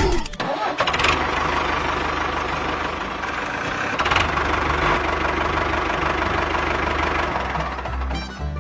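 An engine running steadily, with a fast even pulsing in its low hum.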